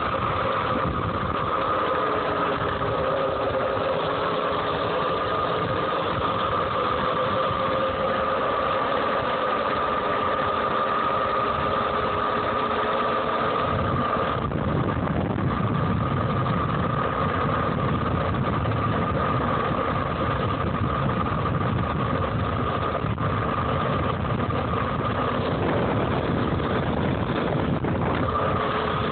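Home-built DC-powered electric dirt bike running steadily, its motor and drivetrain giving a steady high whine over a noisy rush. A louder low rumble sets in about halfway through.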